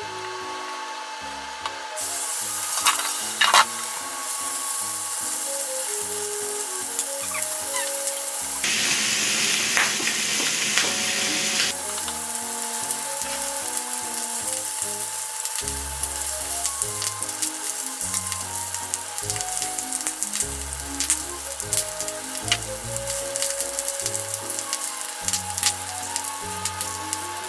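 Chicken pieces sizzling steadily as they fry without oil in a small rectangular tamagoyaki pan, starting about two seconds in and louder for a few seconds near the middle, with scattered sharp clicks from chopsticks against the pan. Light background music plays underneath.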